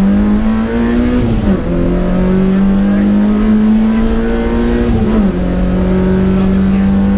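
BMW E30 318is rally car's four-cylinder engine under hard acceleration, heard from inside the cabin. The engine note climbs steadily, drops sharply at two upshifts, one about a second and a half in and one about five seconds in, and climbs again after each.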